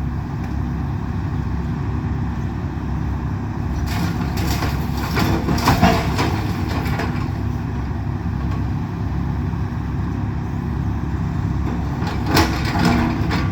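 Excavator's diesel engine running steadily during a house demolition, with several cracks and crashes of breaking building material about a third of the way in and again near the end.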